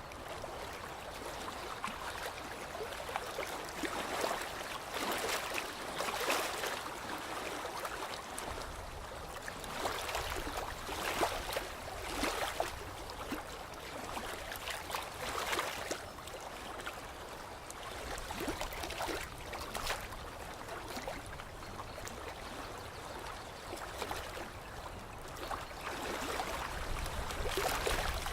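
Lake water lapping, with small splashes coming in irregular surges every second or two.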